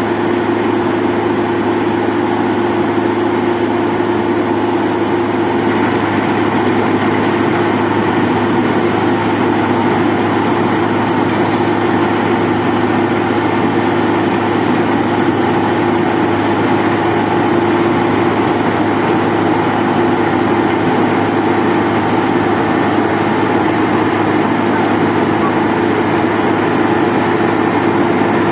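Wirtgen 2100 DC cold milling machine running steadily, its diesel engine at a constant speed with a dense grinding noise over a steady hum.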